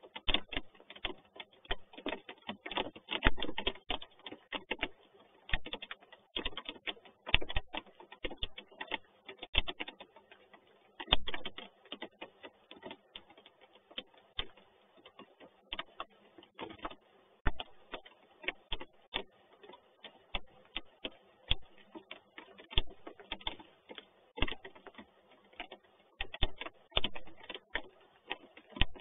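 Raindrops striking the nest box close to the microphone: a steady, irregular patter of sharp ticks and clicks of uneven loudness, several a second.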